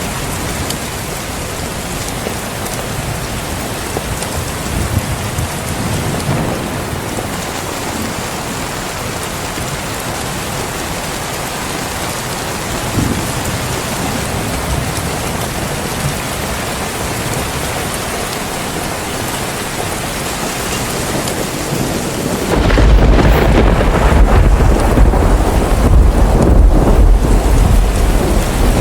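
Heavy rain falling steadily. About three quarters of the way through, a long, loud rumble of thunder sets in and goes on to the end.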